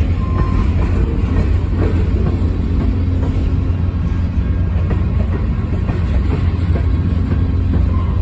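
Heavy diesel engine running steadily with a deep rumble, with faint metallic clicks and clanks over it.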